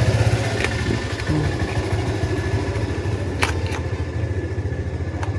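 An engine idling steadily with a fast, even low throb, with a few sharp plastic clicks as batteries are fitted into a toy gun.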